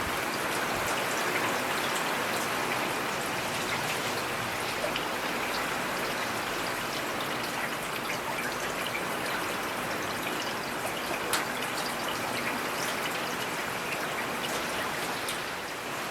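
Steady rain falling, a dense even hiss with scattered sharp ticks of individual drops.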